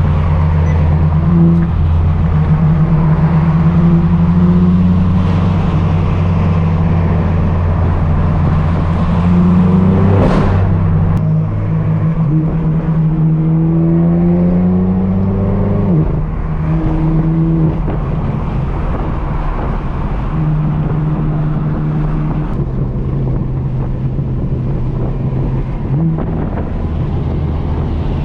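Straight-piped BMW M4 F82's twin-turbo inline-six running steadily at highway speed. About ten seconds in there is a sharp brief spike, then the pitch climbs for a few seconds as the car accelerates and drops suddenly, before the engine settles back to a steady note.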